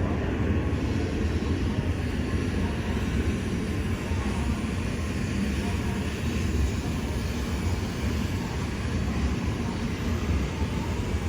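Shinkansen bullet train running: a steady low rumble with an even rushing noise over it.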